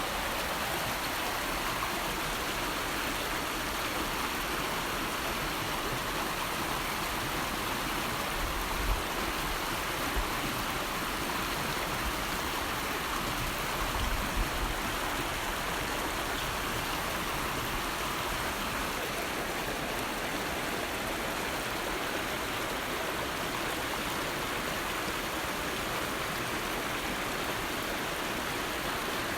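River water flowing and rushing in a steady, even wash. A few brief low bumps stand out about a third and half of the way through.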